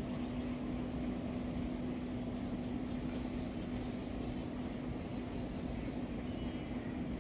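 D19E diesel-electric locomotive running steadily, a constant engine drone with one low held tone over a rushing noise.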